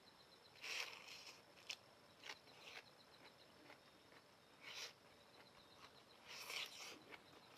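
Quiet noodle-eating sounds: a handful of short, soft mouth and slurping noises spaced a second or two apart, the longest near the end.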